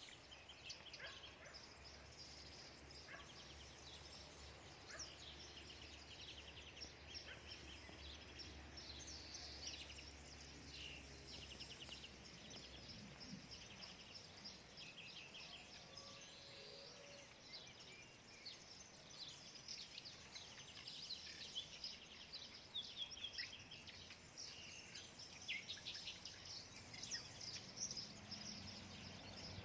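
A faint chorus of many small birds chirping and singing together, short high notes overlapping throughout.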